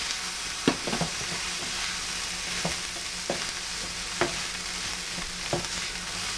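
Fried rice sizzling on an electric griddle plate while a spoon stirs it, with about six sharp taps and scrapes of the spoon against the plate over a steady frying hiss.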